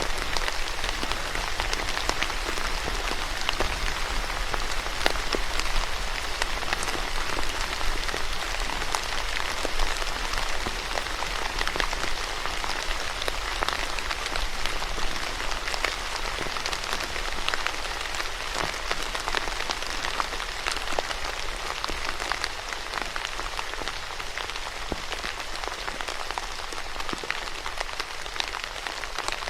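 Steady rain falling on surfaces, a dense even patter with many fine drop ticks, easing slightly in the second half.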